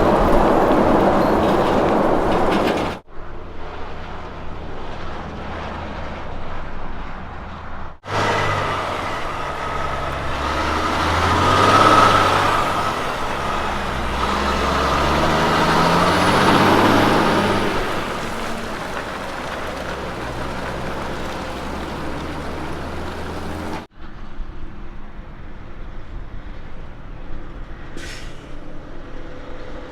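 Heavy diesel road train trucks running on the road across several abruptly cut clips; engine and tyre noise swell to a peak about twelve seconds in and again around seventeen seconds as a truck passes. A brief high hiss comes near the end.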